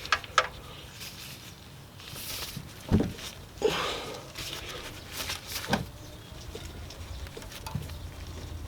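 Wrench clicking and scraping against the oil pan's 17 mm drain plug as it is strained loose, with a few sharp metallic clicks spread through.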